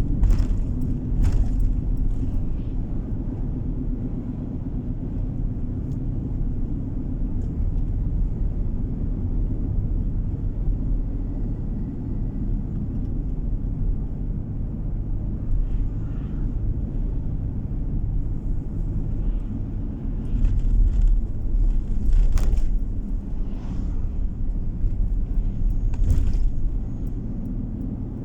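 Car driving on the road, heard from inside the cabin: a steady low rumble of tyres and engine, with a few short knocks.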